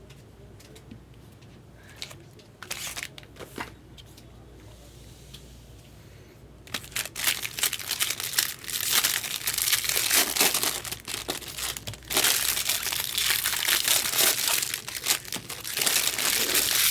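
Foil wrappers of baseball card packs crinkling and tearing as packs are ripped open. It starts about seven seconds in, after a few light handling clicks, and goes on with a short pause near the middle.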